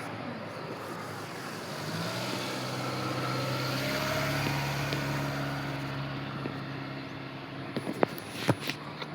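A motor vehicle passing by: an engine hum and rushing noise build to a peak about halfway through, then fade. A few sharp clicks come near the end.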